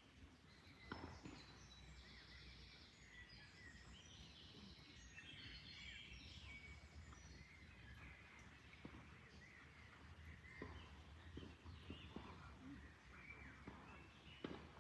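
Faint birdsong: many small birds chirping and twittering over a low, steady background rumble, with a few soft clicks.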